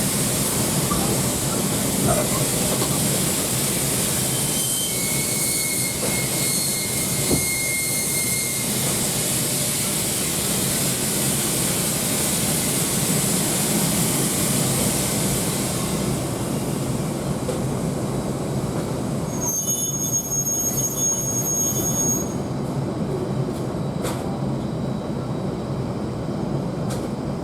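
Steam-hauled passenger train heard from inside a coach: a steady rumble with a high hiss that dies away a little past halfway. Brief high metallic squeals come around 5 to 8 seconds in and again around 20 seconds in.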